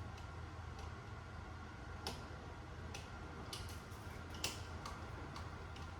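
Small irregular clicks and taps of a screwdriver and screw being worked on an electrical wall outlet, the sharpest about four and a half seconds in, over a steady low hum.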